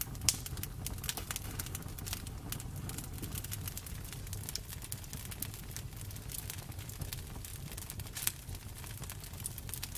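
Campfire burning: irregular crackles and pops over a steady low rumble, with sharper pops just after the start and about eight seconds in.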